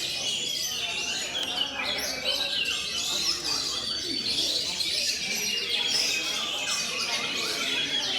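Dense chorus of caged songbirds, including oriental magpie-robins (kacer), singing over one another without pause: rapid, overlapping whistled phrases and chattering notes, the kind of massed singing of a bird-song contest.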